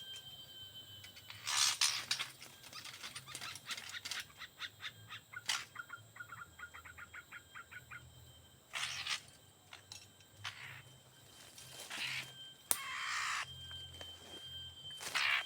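A bird's rapid clicking calls, about four a second for several seconds, among short bursts of rustling.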